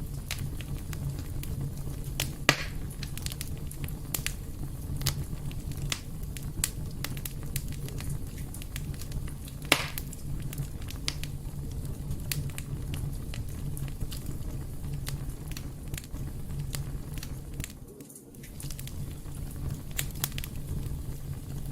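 Wood fire crackling in a fireplace: a steady low rumble of flames with frequent sharp pops and snaps, two of them louder, a few seconds in and about ten seconds in. The sound dips briefly near the end.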